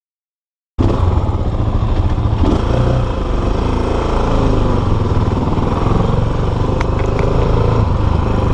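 Motorstar Cafe400 400cc motorcycle running at road speed while being ridden, a steady loud engine and road noise, which cuts in about a second in after a short silence.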